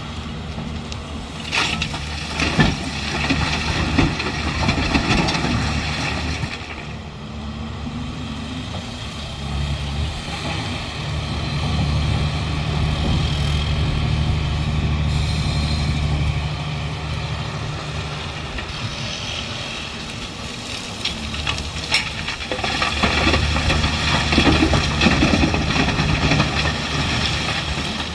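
Large excavator's diesel engine working, its note swelling and easing with the load several times, with a few sharp clanks from the machine.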